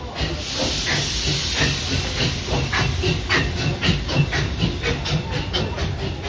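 Class 58 steam locomotive 58 311 pulling away, its exhaust beats quickening from about three to about five a second. A loud burst of steam hiss sounds over the first second and a half.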